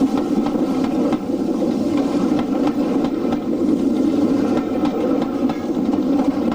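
Railway train's engine running steadily, a low, even drone.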